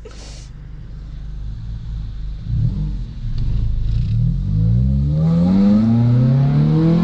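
Straight-piped Honda Civic exhaust and engine accelerating. The revs climb steadily, the note rising in pitch and getting louder over the second half.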